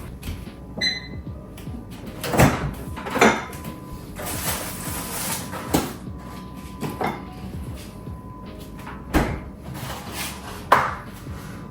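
Kitchen handling sounds: cupboard doors and dishes being knocked and set down, a string of separate clatters every second or two, with a brief ringing clink about a second in and a rustling hiss between about four and five seconds.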